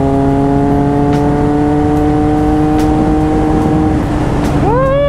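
Triumph Speed Triple RS three-cylinder engine through an SC Project titanium exhaust, pulling steadily with its pitch slowly rising under acceleration, then a quick rise and fall in pitch near the end.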